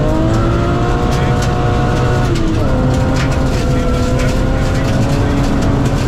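BMW Compact M3 rally car's engine heard from inside the cabin under load: the revs climb for about two seconds, drop sharply with a gear change, then hold steady.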